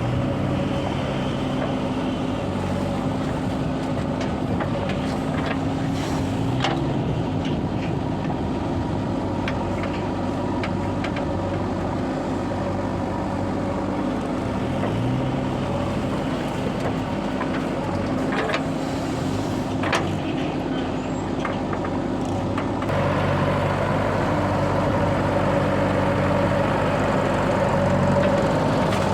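Heavy diesel engines of a JCB 3DX backhoe loader and Mahindra tractors running under load, the revs rising and falling as the machine works. A few sharp knocks come through, and the engine gets louder near the end.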